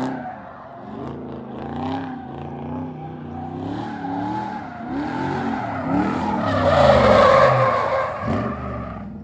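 A car spinning its tires: the engine revs up and down again and again while the tires squeal, loudest about seven seconds in.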